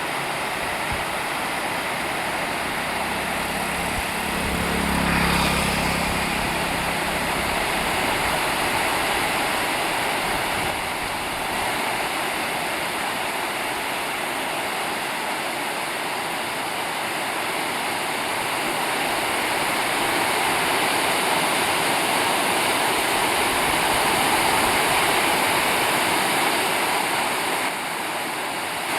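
River water rushing and splashing in a steady, loud roar. A low hum swells briefly about four to six seconds in.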